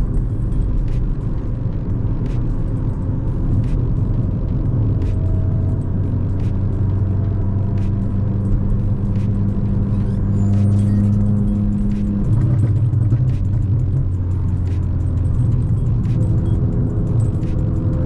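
Volkswagen Golf Mk5 1.4 FSI four-cylinder petrol engine and road rumble heard while driving at a steady engine speed. Its note changes about two-thirds of the way through.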